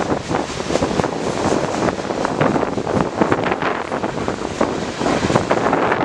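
Freight train rolling past close by: a steady rumble with dense, irregular clatter of steel wheels on the rails, and wind buffeting the microphone.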